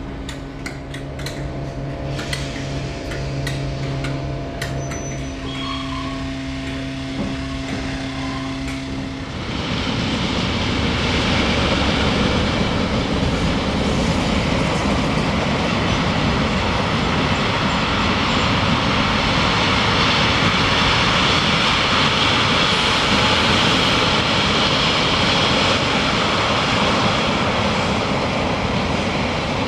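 A train passing through a station at speed: a loud rush of wheel and rail noise sets in about nine seconds in and carries on. Before it, a steady low hum with scattered clicks.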